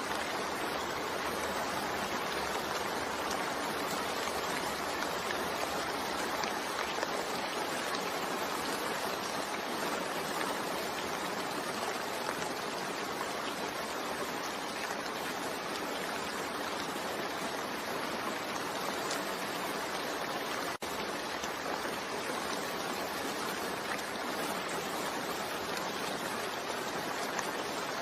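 Steady rain falling, an even continuous hiss with no individual drops standing out. The sound cuts out for a split second about twenty-one seconds in.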